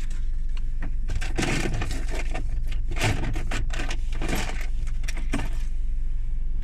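Irregular clinks and rattles of small hard objects being handled, over the steady low hum of an idling car engine.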